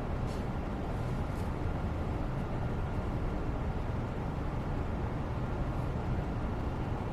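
Steady background white noise, heavy in the low end like a distant rumble. A few faint light ticks come in the first second and a half.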